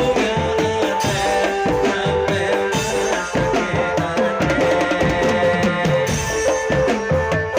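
Madurese drum band playing music: a fast, steady beat on drums and hand percussion under a held, shifting melody line.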